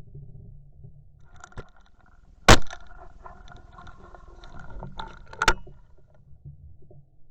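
Two sharp shotgun shots about three seconds apart, the first the louder, with lighter clicks and knocks around them.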